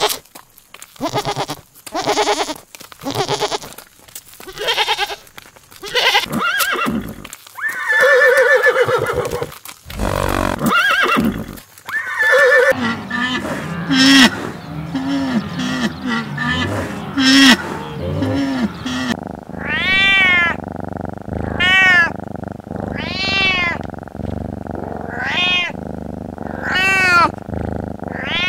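Goats bleating in wavering calls, then lower, shorter animal grunting calls, then a cat meowing over and over, each meow rising and falling, about one every second and a half.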